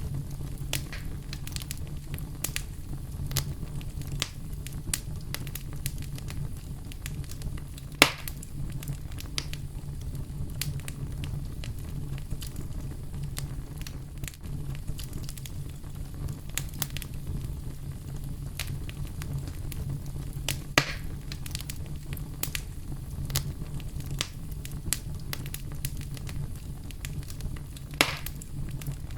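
Campfire burning: frequent crackles and snaps over a steady low rumble, with louder pops about eight seconds in, about twenty-one seconds in, and near the end.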